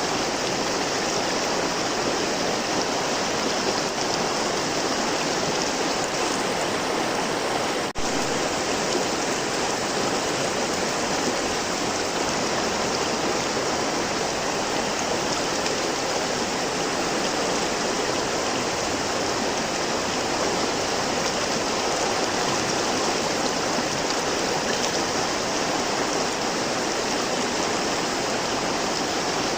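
River water flowing steadily, an even rushing sound, with a momentary dip in level about eight seconds in.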